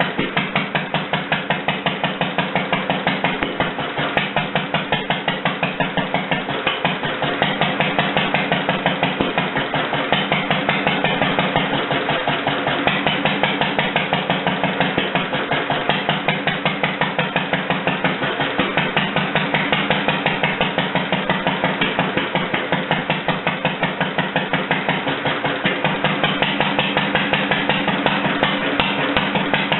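International Harvester LA single-cylinder engine, freshly rebuilt, running at a slow, steady idle with even exhaust beats, about three or four a second.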